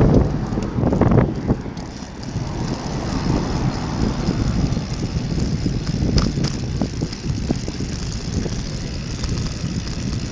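Steady wind rush and road rumble on a rider's microphone while riding along.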